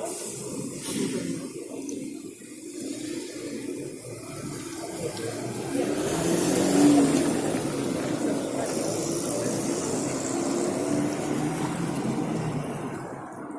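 Wind rushing over the microphone on a moving motorcycle, with the bike's engine running underneath; the rush swells to its loudest about halfway through.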